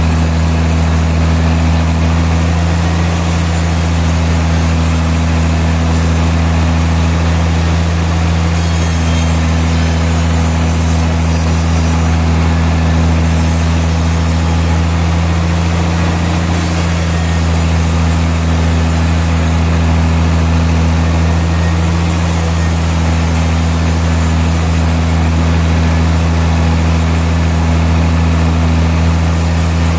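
Sawmill machinery running with a steady, loud low hum.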